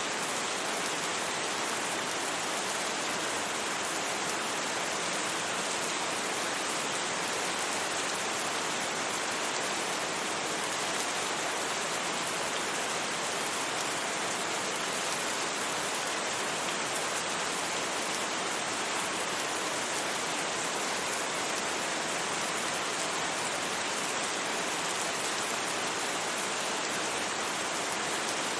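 Steady rain without thunder, an even hiss of falling rain that does not change.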